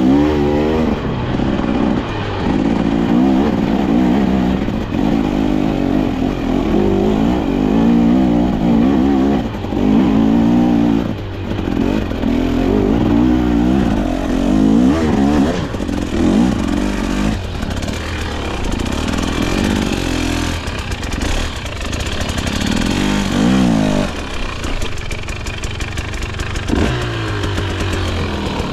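KTM 250XC-W two-stroke dirt bike engine, revving up and down again and again as the throttle is worked. In the last several seconds it runs lower and steadier, with a few short blips.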